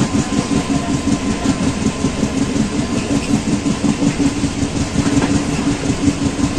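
Passenger train running along the line, heard from inside a carriage: the wheels on the track make a steady low rumble.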